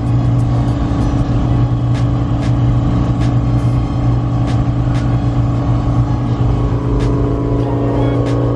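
Car driving at a steady speed, heard from inside the cabin: a constant engine and road drone, with faint light clicks every second or so.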